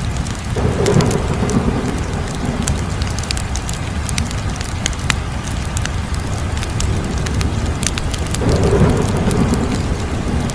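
Wood fire crackling, with scattered sharp pops over a steady low rumble. Two louder, deeper swells come in, one about half a second in and one near the end.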